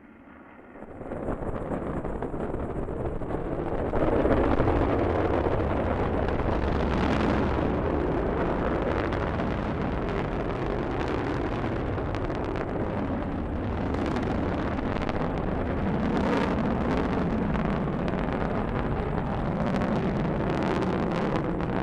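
Delta II rocket's engines at liftoff: a loud, dense roar that swells over the first few seconds, then holds steady with sharp crackling all through.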